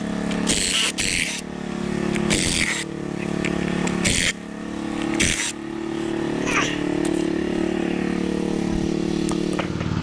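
A small engine running steadily, wavering a little in pitch, with several short bursts of hissing noise over it in the first half.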